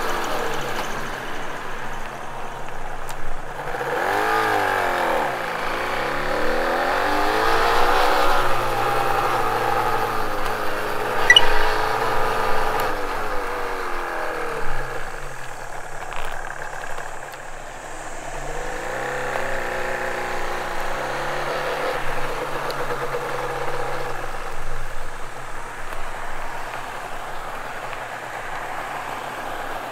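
Yamaha R1-Z's 250 cc two-stroke parallel-twin engine revving up and dropping back several times as the bike rides through the gears. Near the end it settles to a steady idle as the bike stops.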